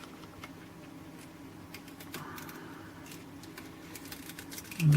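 Light clicks and soft rustling of a small cardboard toy box being handled and opened, over a faint steady hum. Near the end comes a short, rising hummed "mm".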